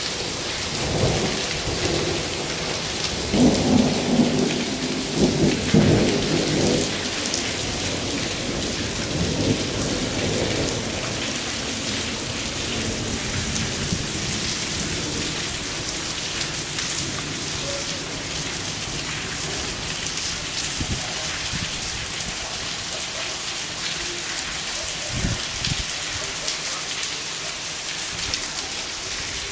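Steady hiss of hail and heavy rain falling, with a rolling rumble of thunder through the first several seconds that then dies away.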